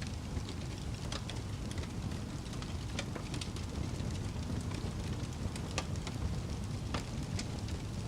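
Campfire burning: a steady low rumble with frequent sharp crackles and pops at irregular intervals.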